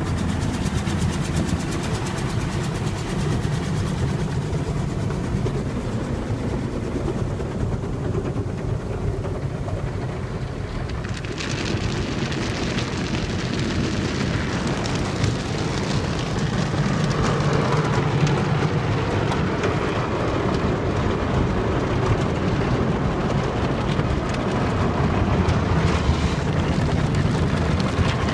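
Automatic car wash tunnel equipment heard from inside the car: steady water spray and washing noise on the car body. A sharper, hissier spray starts abruptly about 11 seconds in and continues.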